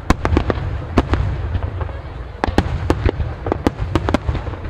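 Fireworks barrage with many aerial shells bursting in quick succession: sharp cracks and booms at an uneven pace over a continuous low rumble, thinning briefly about a second in, then thickening again.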